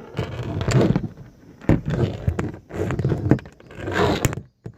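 Handling noise from the recording phone being moved about and set in place: close rubbing and scraping against the microphone, with several sharp knocks.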